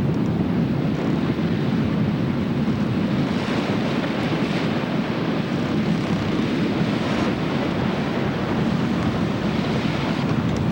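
Wind and rushing sea at a steady, loud level, with wave noise swelling up a few times.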